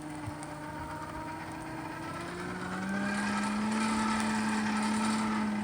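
Forge blower motor humming steadily. About three seconds in it speeds up, its pitch rising a little as it gets louder.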